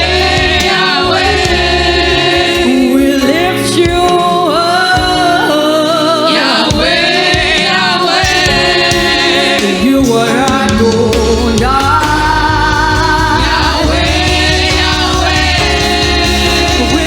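Gospel choir singing a worship song with band accompaniment; the bass drops out for a few seconds near the middle and comes back in.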